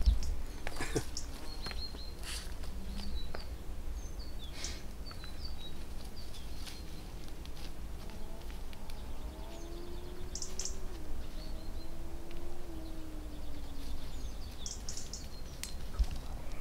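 Small birds chirping now and then among trees, over a steady low rumble and a few rustles. A faint hum that slowly shifts in pitch drifts in through the middle.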